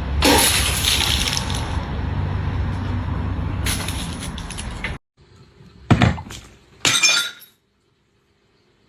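A sudden loud crash with a long rattling, noisy tail, then, after a break, two short sharp clattering hits about a second apart.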